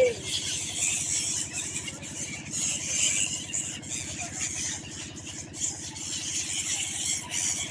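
Small engine running steadily with a fast, even beat, over a high hiss.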